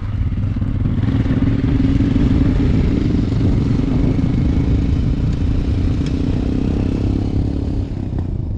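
Royal Enfield Himalayan's single-cylinder engine running steadily under way, with wind and road noise.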